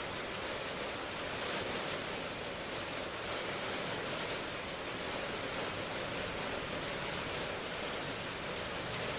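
Steady rain ambience: an even hiss of falling rain with occasional faint patters.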